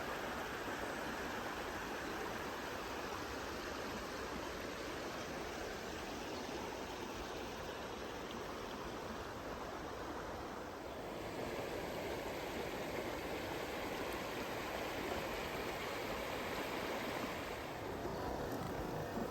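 River water rushing over stones, a steady wash of noise whose tone shifts about eleven seconds in and again near the end.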